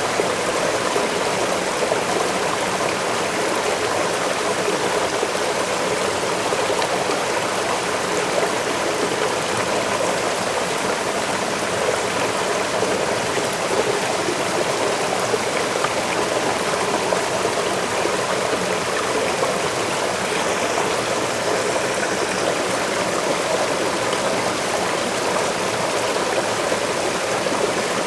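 Waterfall running steadily: an even, unbroken rush of water.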